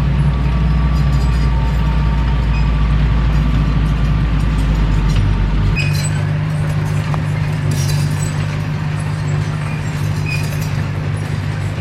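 Komatsu D21P crawler bulldozer's diesel engine running steadily under work, its low note shifting about six seconds in, with scattered metallic clinks from the machine.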